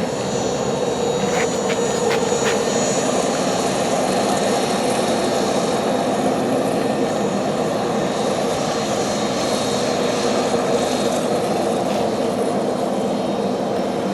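Jet airliner engines running steadily, a broad even roar with a faint high whine, with a few light clicks about one and a half to two and a half seconds in.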